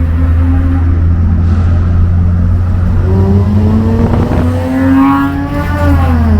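Mitsubishi Lancer Evolution IV's turbocharged four-cylinder engine pulling under acceleration over a steady low rumble. The pitch dips about halfway through as if at a gear change, rises steadily, then falls off sharply near the end.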